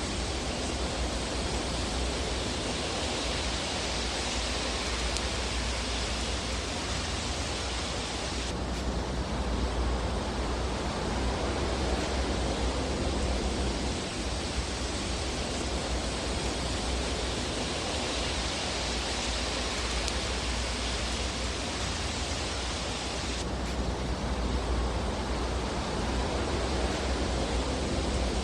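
Fireplace ambience: a steady, even rushing hiss of burning fire over a low rumble, with no distinct pops standing out. The upper hiss dips abruptly about eight seconds in and again near the end, like the seam of a looped recording.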